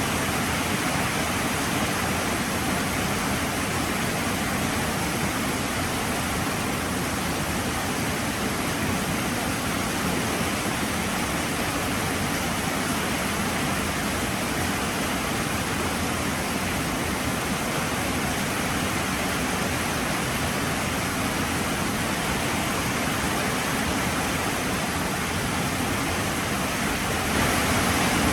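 Heavy rain falling steadily, an even dense hiss with no breaks, growing a little louder about a second before the end.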